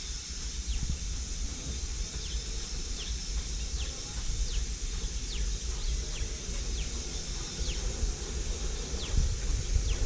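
A bird repeating short, high, falling calls roughly once a second over wind rumbling on the microphone and a steady high hiss.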